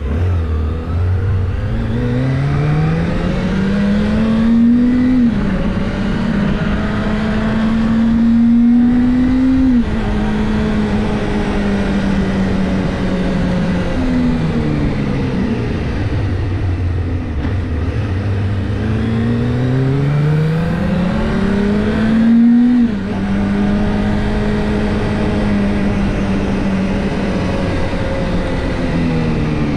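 Kawasaki Ninja ZX-25R's 250 cc inline-four engine accelerating through the gears: the pitch climbs steeply and drops sharply at upshifts about five and ten seconds in, holds at steady cruising revs, falls off around the middle, then climbs again to another shift about two-thirds of the way through before settling at steady revs.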